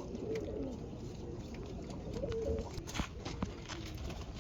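Roller pigeons cooing in their loft, low warbling coos overlapping, with a few sharp clicks, one about three seconds in.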